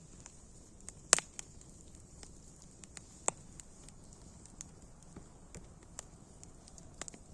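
Wood fire crackling: scattered sharp pops and snaps over a faint steady hiss, the loudest pop about a second in.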